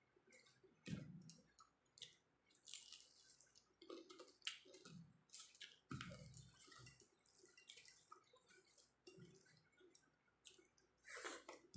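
Faint, close-up eating sounds: a person chewing a mouthful of rice and jackfruit curry, with wet mouth clicks and squishes at irregular intervals.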